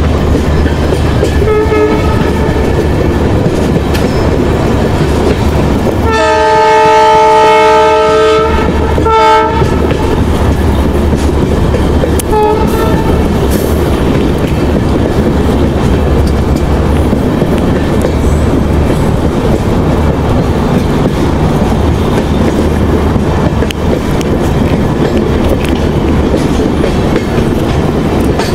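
Passenger train running along the track with a steady rumble and clickety-clack, heard from an open coach door. The locomotive's horn sounds a long chord about six seconds in and a short one about nine seconds in, with brief faint toots near two and twelve seconds.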